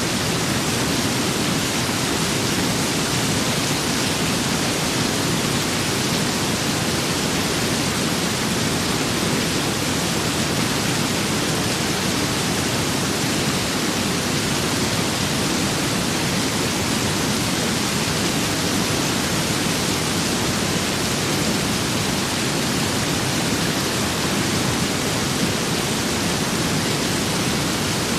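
Steady rain with wind: a dense, even hiss that holds level throughout, with no separate drops, gusts or thunder standing out.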